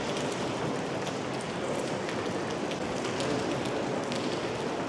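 Steady rain falling on the roof of a large, echoing industrial hall, with scattered sharp ticks of single drops.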